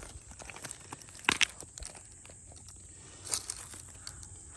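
Stones crunching and clicking in a gravel creek bed: a sharp crunch about a second in and another near three seconds, with small scattered clicks between.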